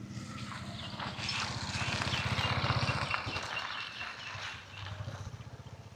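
A cow lowing: one long, low call that swells about a second in and fades after about four seconds.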